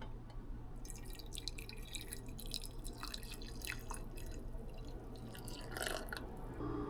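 Water dripping and splashing in small, irregular drops, with light clicks scattered through it.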